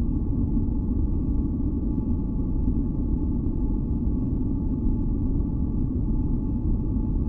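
Steady, unchanging noise track, weighted low like a deep rumble, with a few faint held tones over it: a continuous masking noise for sleep and tinnitus relief.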